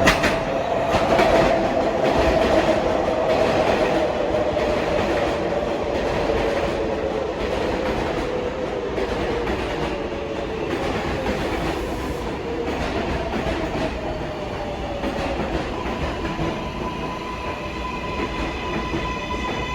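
R188 subway train pulling into the station and braking: wheels clacking over the rails and the motors' whine falling steadily in pitch as it slows. A steady high-pitched hum sets in near the end as the train comes to a stand.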